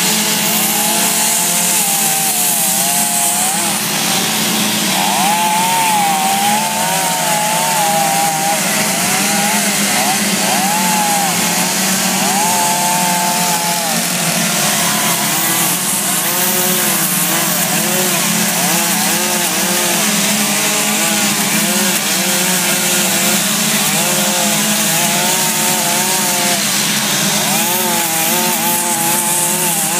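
Chainsaw running continuously while carving wood, its engine pitch rising and falling as it bites into the cut and eases off.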